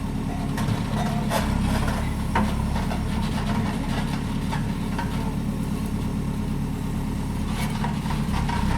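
Engine of a heavy machine or truck running steadily at low revs, with a few light knocks in the first couple of seconds.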